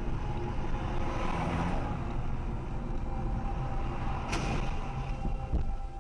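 Road noise and engine hum from inside a moving car: a steady low rumble, with a single sharp click a little past four seconds in.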